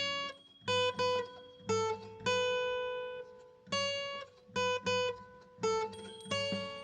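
Guitar music: plucked notes and chords struck one after another, each ringing and dying away, with short gaps between them.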